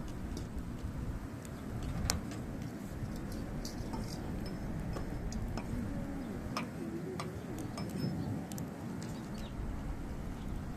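Hardwood firewood burning in a fire pit, crackling with irregular sharp pops, the loudest about two seconds in, over a low steady rumble.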